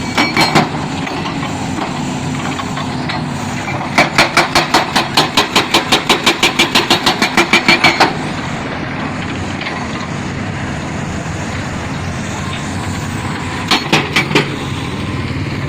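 Heavy construction machinery's engine running steadily. About four seconds in, a fast even run of sharp knocks, about five a second, lasts some four seconds, and a few more knocks come near the end.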